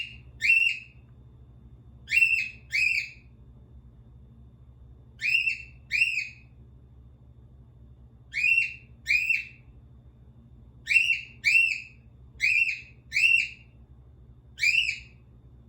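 Cockatiel whistling: short, clear notes that sweep up and then hold. They come mostly in pairs about half a second apart, with a new pair every two to three seconds.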